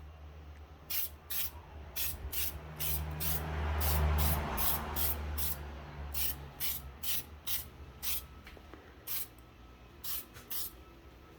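Headlight coating sprayed from an aerosol can onto a headlight lens in short hissing bursts, roughly two a second, over a low rumble that swells about four seconds in.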